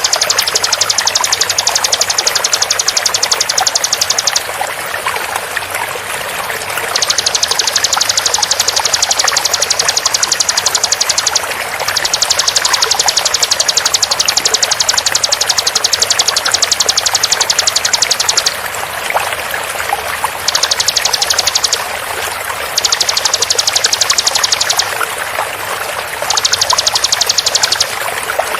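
Bar-winged prinia (ciblek) song in very fast, tightly packed high trills, coming in bursts of one to six seconds with short pauses between them. It sits over a steady sound of flowing water.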